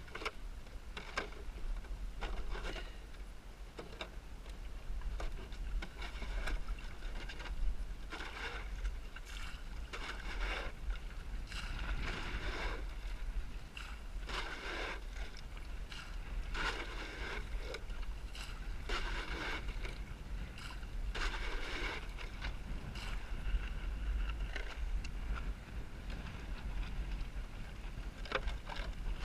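Water splashing and slapping against the hull of a small Snark sailboat sailing in high wind, in uneven surges every second or two, over a steady low rumble of wind on the microphone.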